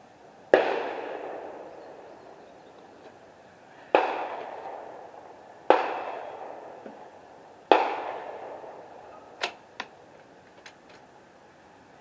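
Four gunshots, each a sharp crack with a long echoing tail, spaced about three and a half, then two seconds apart, followed by a few faint clicks.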